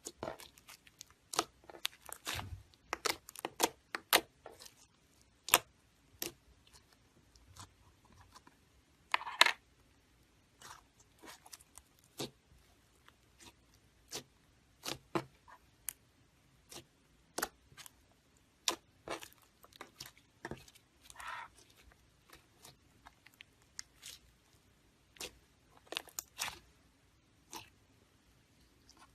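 Slime being squeezed, stretched and poked by hand, giving irregular sticky clicks, pops and crackles with short pauses between.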